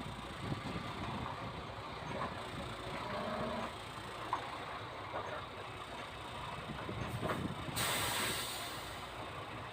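MAN TGX tractor unit's diesel engine running, with a sudden hiss of released air from the air brakes near the end, lasting a little over a second.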